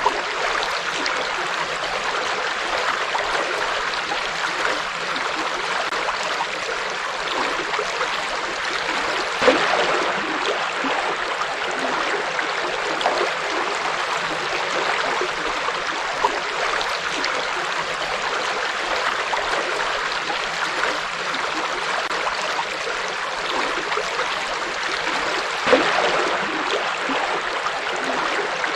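River water flowing steadily over rocks with a continuous rushing and gurgling, with a couple of brief louder splashes, one about a third of the way in and one near the end.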